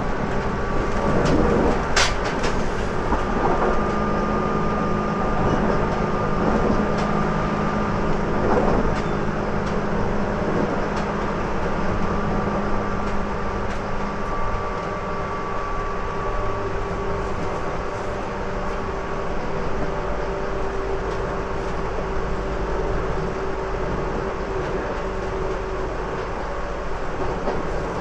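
JR Kyushu 811 series electric train, one of the cars with externally fanned traction motors, running between stations, heard from inside the car. It makes a steady running noise with several held whining tones from the motors and gearing, plus rail-joint clicks. One sharp click comes about two seconds in, and the lowest tone fades out about halfway through.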